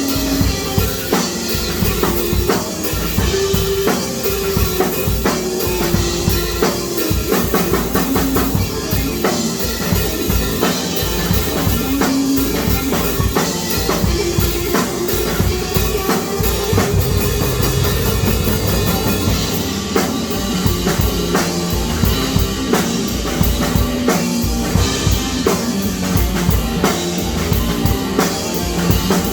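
Music driven by a drum kit: continuous rapid drumming with bass drum, snare and cymbal hits over a pitched line that moves in steps.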